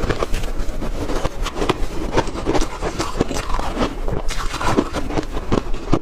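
Ice being chewed close to the microphone: a dense, irregular run of crunches and cracks.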